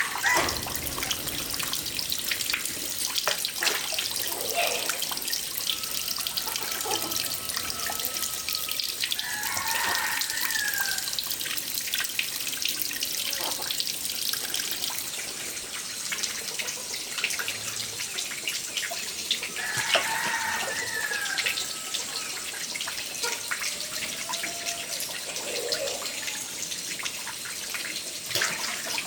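Running water pouring and splashing steadily, with small clicks and knocks, while a rooster crows twice, about a third and two thirds of the way through.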